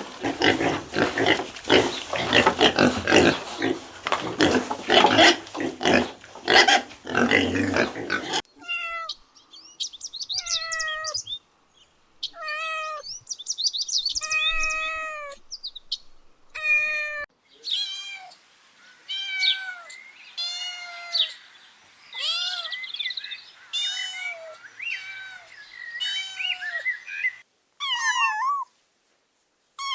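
Harsh, noisy grunting for about the first eight seconds, cut off abruptly, then a kitten meowing over and over: short high calls, each rising and falling, about one a second.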